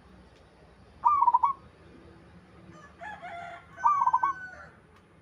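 Zebra dove (perkutut) cooing: one short, quick run of coo notes about a second in and another about four seconds in. A different, weaker bird call comes just before the second coo, and a held whistle overlaps it.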